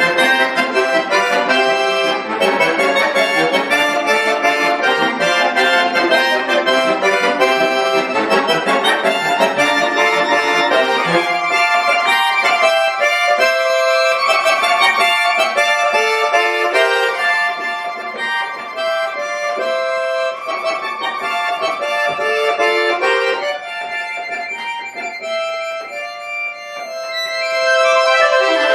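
Bayan (Russian chromatic button accordion) playing a piece: a fast, dense run of notes for the first ten seconds or so, then a quieter, sparser passage, swelling louder again near the end.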